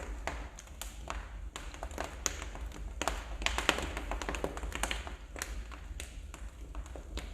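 Wood fire burning in a fireplace, crackling with irregular sharp pops and snaps, over a steady low hum.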